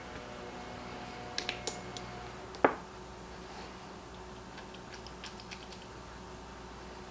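Light clicks and ticks of small parts and hand tools being handled on a workbench during carburetor disassembly, with one sharper clink that rings briefly about two and a half seconds in, over a steady background hum.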